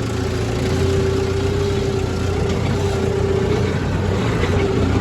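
Tractor engine running steadily with an even, unchanging drone.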